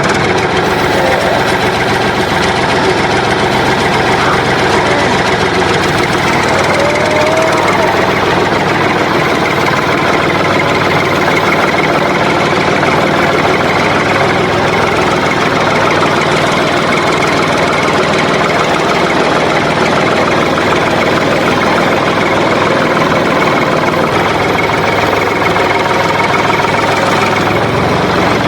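Small engine of a DIY mini tractor water pump set running steadily, just after being started.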